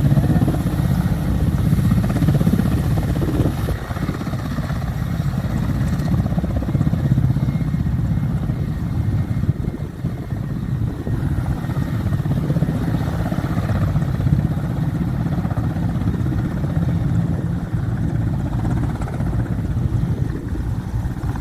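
Aircraft engine noise: a steady, deep rumbling drone that holds at an even level throughout.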